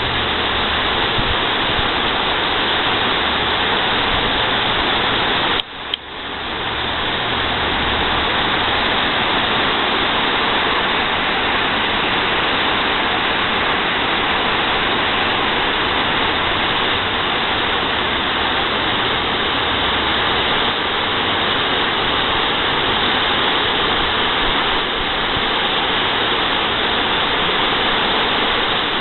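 Creek water spilling over a low dam and cascading down over rocks: a steady rush of water, briefly cutting out about six seconds in.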